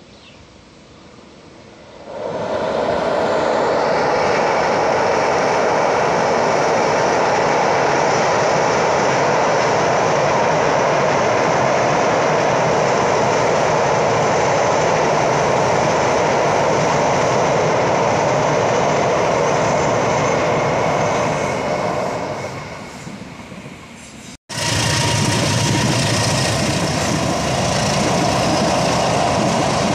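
Passenger train running across a steel truss bridge: a loud, steady noise of wheels on rail that sets in about two seconds in and fades a little after twenty seconds. It breaks off abruptly, then returns just as loud and deeper as the train's cars run close past.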